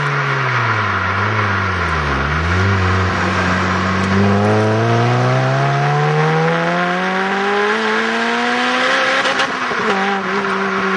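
Honda Civic Type R four-cylinder engine through an HKS Hi Power 409 aftermarket exhaust. The revs fall away, then climb steadily under acceleration for about six seconds. Near the end they drop abruptly and settle into a steady drone.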